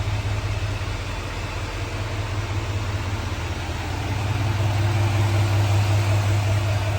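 2021 Chevrolet Silverado 3500's 6.6-litre Duramax turbo-diesel V8 idling steadily, with a low hum that grows a little louder about halfway through.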